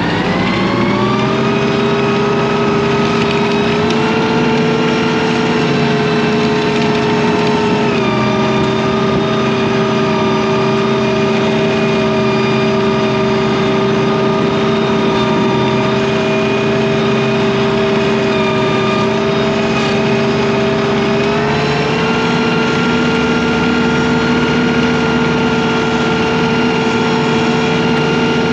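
The engine of a snow-moving machine running steadily at working speed, its pitch dropping just after the start, rising a little about 4 s in, dipping again about 8 s in and stepping up near 21 s in as the load changes.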